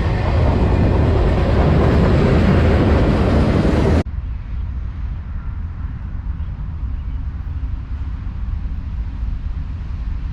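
Freight train rolling past close by, a loud steady rumble with wheel and rail noise; about four seconds in it cuts sharply to a quieter, deeper rumble of the train.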